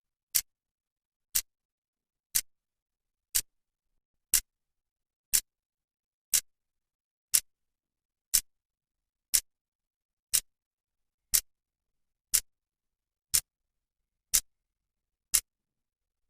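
Clock's second hand ticking once a second, sharp even clicks with silence between.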